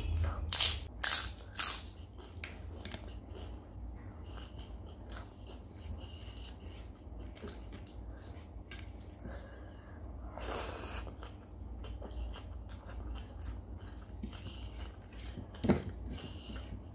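A person eating close to the microphone: chewing, with loud crunches of fried papad, three about half a second to two seconds in and another around ten seconds in. Small crackles run between them, and there is a sharp click near the end.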